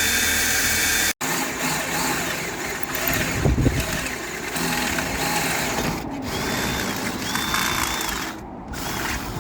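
Power drill running in short bursts, boring a pilot hole for a door lock. Its motor whine starts and stops several times.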